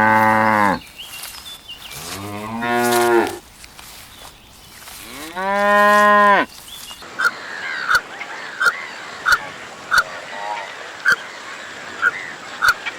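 Cow mooing three times, each moo a long, drawn-out call. After about seven seconds a different sound takes over: a run of short, evenly spaced calls with sharp clicks, a little under two a second.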